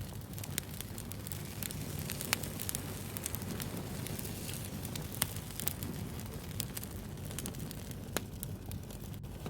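Wood fire burning: a steady low rumble and hiss with frequent sharp crackles and pops at irregular intervals.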